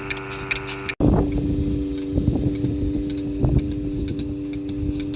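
An engine running steadily, with an abrupt cut about a second in. Wind rumbles on the microphone after the cut.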